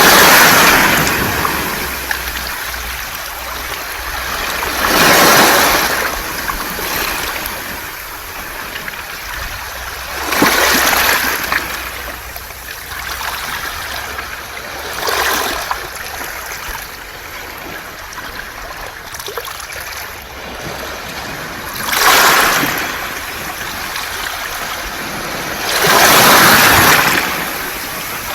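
Waves surging up a beach of smooth round pebbles (mongdol) and draining back, with the rush and rattle of the stones. Six swells break over the stretch, roughly every five seconds, with one longer lull in the middle.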